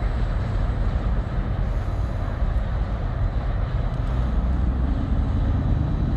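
Freight train rolling by with a steady low rumble.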